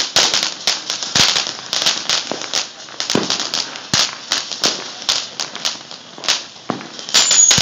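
Fireworks going off: a rapid, irregular string of sharp pops and crackles over a steady hiss, with a brief high whistle near the end.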